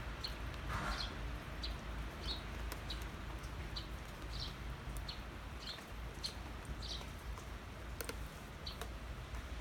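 Steady light rain hiss with a small bird chirping over it, short high chirps about twice a second. A few sharp drip clicks come near the end.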